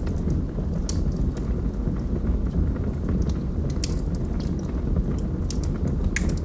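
Logs burning in a fireplace: a steady low rumble of the flames, with sharp crackles and pops from the wood scattered through, several close together near the end.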